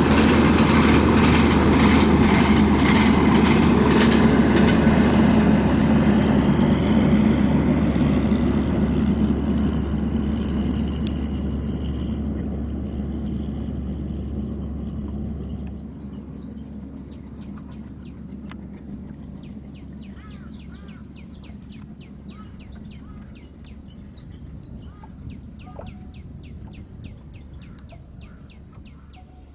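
A passenger train of LHB coaches rolls past with a regular wheel clatter over the rail joints, fading steadily as it draws away. About 16 s in the sound drops sharply, leaving only faint rapid high ticking and a low hum.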